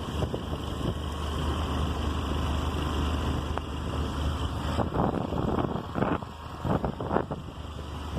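Wind noise on the microphone over the steady low running of a motor scooter on the move, with sharp irregular gusts from about five seconds in.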